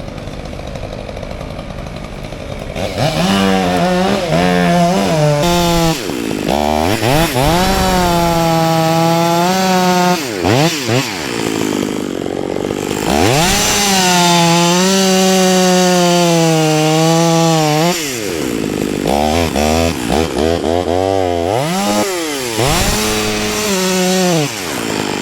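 Chainsaw running hard through wood, its engine pitch dropping and climbing again several times as the throttle is let off and opened, after about three seconds of a lower, steadier running sound.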